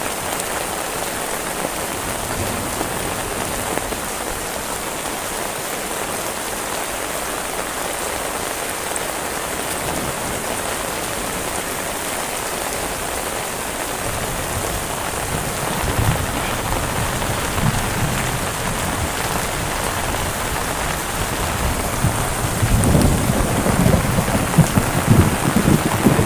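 Heavy rain falling steadily and drumming on surfaces. Over the second half a low rumble of thunder builds, growing louder near the end.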